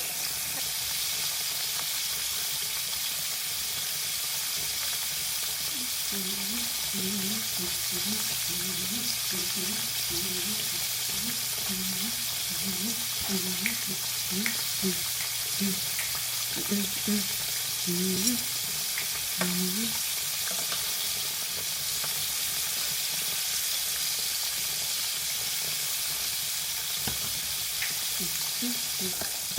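Food sizzling steadily in a frying pan. Between about 6 and 20 seconds in, a run of short low pitched sounds comes in over it, and these are the loudest moments.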